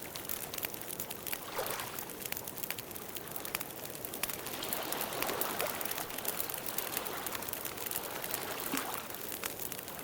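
Campfire crackling: frequent sharp pops and snaps over a steady soft hiss, with a few gentle swells of rushing sound.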